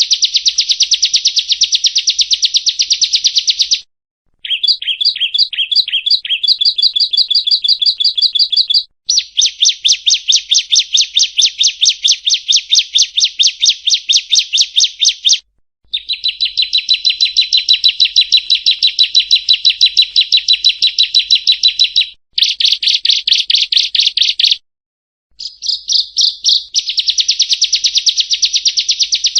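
Bar-winged prinia (ciblek) singing loudly in long runs of rapid, repeated shrill chirps. The runs last several seconds each and break off in short pauses. This is the fast, machine-gun delivery that bird keepers call "nembak".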